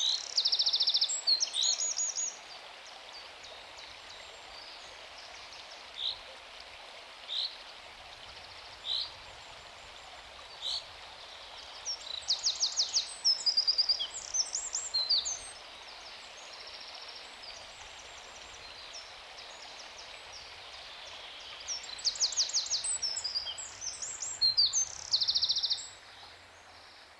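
Small birds singing over a steady background hiss. Bursts of rapid high trills and chirps come near the start, in the middle and near the end, with single short chirps every second or two in between.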